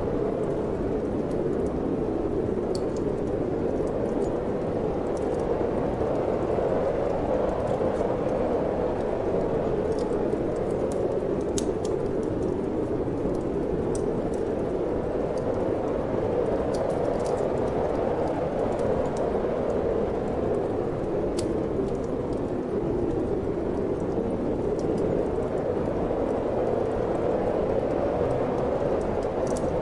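Steady rushing wind with the occasional crackle and pop of a wood fire burning in a fireplace.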